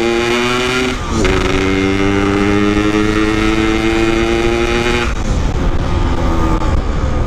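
Yamaha RX-King's single-cylinder two-stroke engine pulling in gear, its pitch rising steadily, with a quick drop about a second in as it shifts up, then rising again. About five seconds in the throttle closes and the engine note fades into rumbling road and wind noise.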